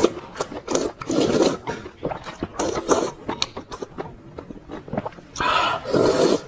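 Close-miked eating sounds of spicy noodles with toppings: wet chewing in bursts about once a second, with a longer, louder stretch about five seconds in.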